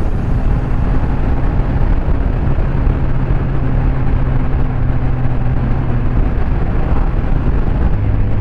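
Kawasaki Z1000's inline-four engine running steadily under wind noise, its pitch shifting slightly a few times.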